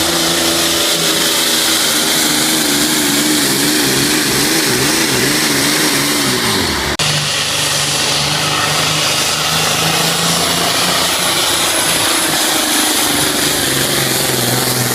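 Diesel engine of a 10,000-pound pro stock pulling tractor running loud at high revs under load. Its pitch wavers up and down, then drops about six and a half seconds in. After a sudden break, a steadier engine drone continues.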